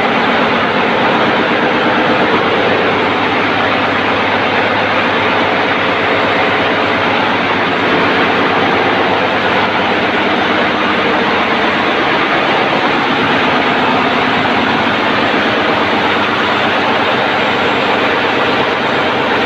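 Daihatsu 6DL-19 six-cylinder marine diesel auxiliary engine, a 456 kW ship's generator, running steadily: a loud, even engine-room din with a constant low hum beneath it.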